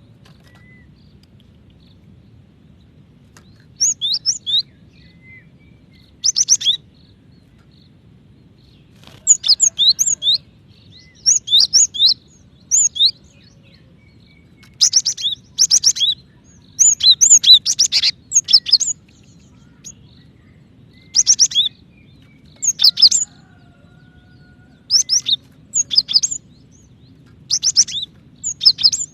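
Female cinereous tit (gelatik batu) calling to a male. Short bursts of quick, high, sharp chirps come in clusters every second or two, with brief pauses between them, over a faint low hum.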